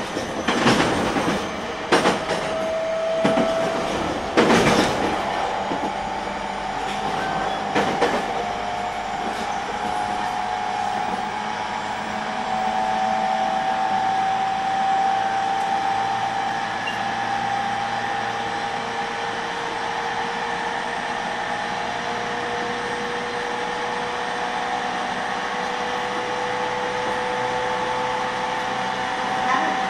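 E231 series electric train running, heard from inside the car. Several sharp clacks of the wheels over rail joints or points come in the first eight seconds, the loudest about four and a half seconds in. Then the ride settles into a steady rumble with faint whining tones.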